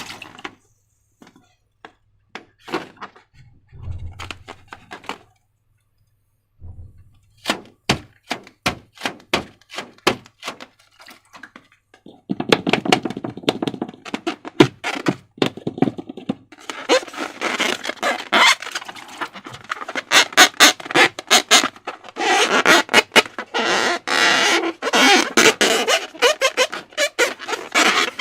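Slime being handled: scattered sticky clicks and taps with a couple of dull thumps, then from about twelve seconds in a dense, continuous crackling and squelching as the slime is squeezed and worked by hand.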